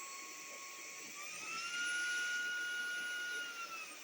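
KCLASO cordless stick vacuum's motor whining steadily, then rising in pitch and getting louder about a second in as it is switched to a higher power setting. It holds there, then winds back down to the lower pitch near the end.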